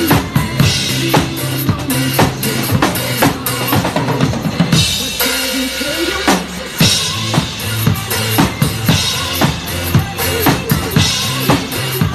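Drum kit played along to a pop backing track: a steady beat of kick drum, snare and rimshot hits over a bass line. About five seconds in, the bass drops out for roughly two seconds under a bright wash, then the full groove comes back.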